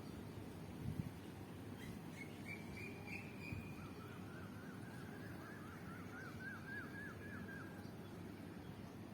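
A songbird singing over a steady low background rush: first a short high trill, then a run of quick repeated notes lasting about four seconds.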